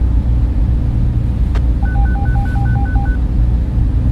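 Data center server fans running with a steady low hum. About two seconds in, a quick run of about seven short two-tone electronic beeps sounds, and a single click comes just before it.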